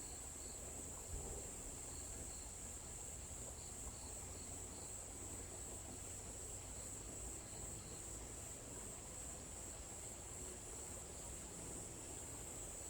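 Insects in a forest keep up a steady, high-pitched trill. Faint, quicker chirps repeat beneath it during the first few seconds and again around the middle.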